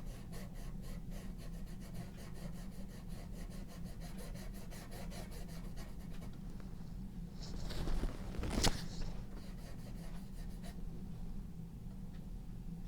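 Pencil sketching on paper: quick, even back-and-forth shading strokes, several a second. About eight seconds in comes a louder rub with a sharp click.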